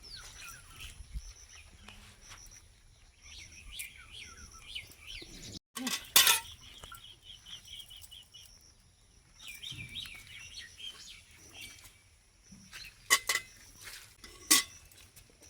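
Small birds chirping and twittering, in quick runs of short notes. A few sharp knocks or clinks stand out: one about six seconds in and two near the end.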